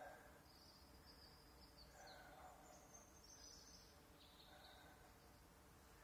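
Near silence with faint birdsong: a few short, high, thin phrases over the first four or five seconds.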